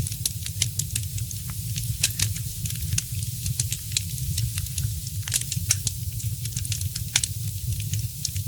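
Wood fire crackling: frequent, irregular sharp pops over a steady low rumble and a faint hiss.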